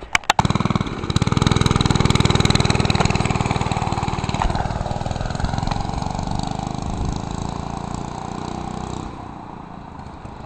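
Minibike's 3-horsepower Briggs & Stratton single-cylinder engine catching about half a second in after a couple of sharp clicks, then running fast and loud. It gets gradually quieter and drops off near the end.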